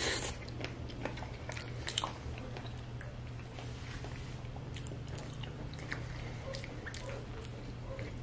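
Close-miked chewing of a mouthful of chili cheese fries: soft, wet mouth sounds with many small clicks, over a low steady hum.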